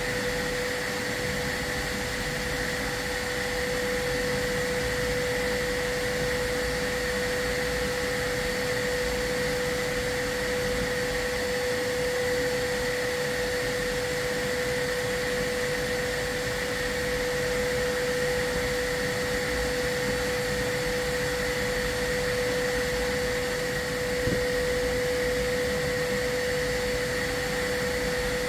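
Chimney sweep's dust-control vacuum running steadily, with a constant whine. A small knock comes near the end.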